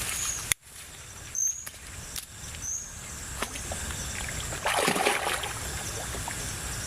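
River water sloshing, with one louder splash about five seconds in, over a steady background of forest insects.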